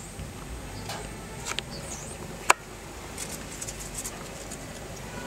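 Faint high chirps of small birds outside, with a few sharp clicks scattered through, the loudest about two and a half seconds in.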